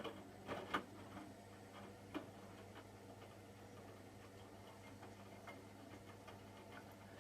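Hotpoint washing machine near the end of its cycle, running quietly: a faint steady hum with a few scattered clicks and ticks, most of them in the first couple of seconds.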